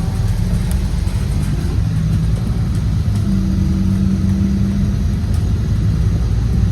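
Scania Citywide LE city bus's CNG engine running under way, a steady low rumble, with a stronger held engine tone from about three to five seconds in.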